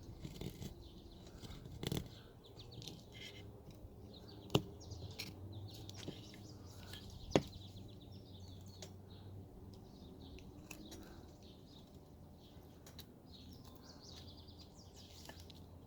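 Birds chirping in short, scattered calls. Over them come a few sharp clicks of a carving knife cutting into wood, the sharpest about two thirds of the way in.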